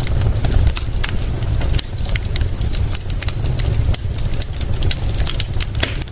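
Wood fire crackling, with many sharp pops scattered throughout, over a steady low rumble.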